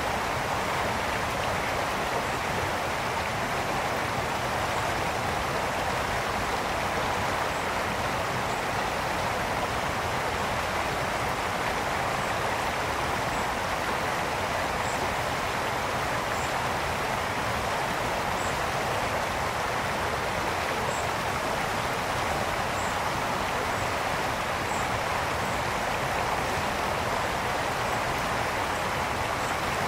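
Brook flowing steadily, an even rushing and babbling of water with no breaks. Faint short high chirps sound every second or two above it.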